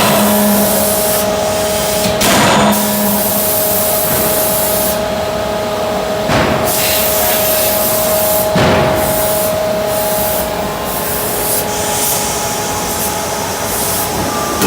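Anyang 31.5 kJ CNC hydraulic closed-die forging hammer at work: loud steady hiss and a hum, broken by four heavy blows at uneven spacing in the first nine seconds.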